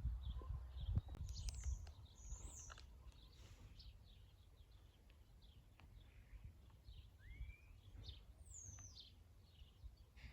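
Wild birds singing: many short, high chirps repeating throughout, with a rising whistled note about seven seconds in and a falling one just after. A low rumble under the first couple of seconds fades away.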